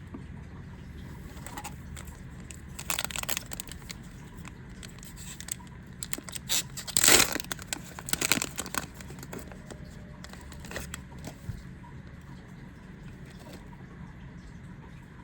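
A Yu-Gi-Oh! booster pack wrapper being torn open and crinkled in short rustling bursts: a brief one about three seconds in, then a longer stretch whose loudest tear comes about seven seconds in.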